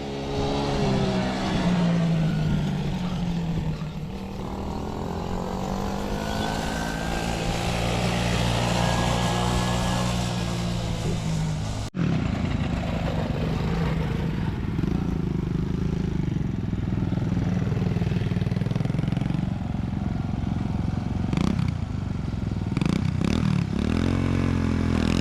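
Small off-road vehicle engine running and revving, its pitch rising and falling as it is ridden around. The sound breaks off abruptly about halfway through, then the engine carries on.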